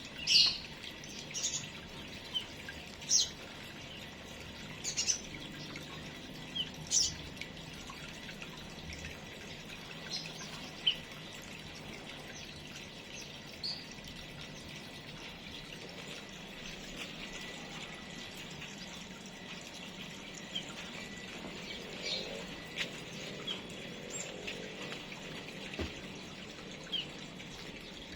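Small aviary birds giving short, high chirps, one at a time and spaced a second or more apart, over a steady faint hiss.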